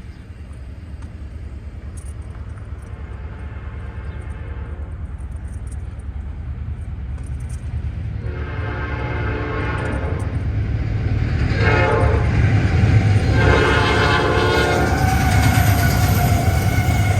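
Norfolk Southern freight train's diesel locomotives approaching, their low rumble growing steadily louder, while the lead locomotive's air horn sounds several long blasts from about halfway in.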